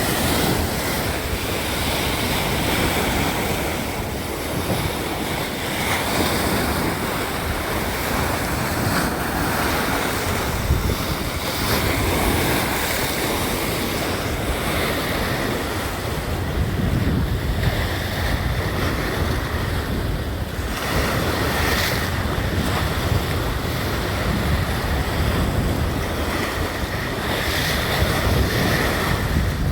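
Sea waves breaking and washing on the shore under a steady wind, with wind rumbling on the microphone.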